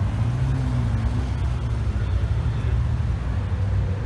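Car engine running with a steady low rumble, the pitch rising slightly about half a second in.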